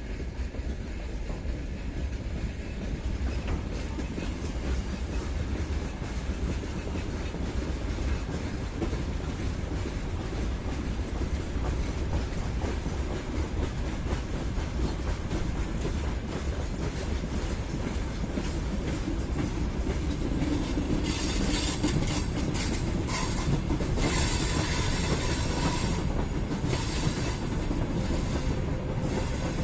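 Freight train rolling past, a steady rumble of wagon wheels clattering over the rails. In the last third, bursts of high-pitched wheel squeal come and go.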